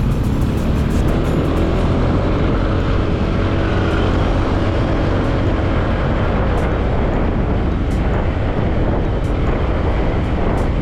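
Steady road noise of a motorcycle ride through the action camera's built-in microphone: wind rush and engine noise, loudest at the low end.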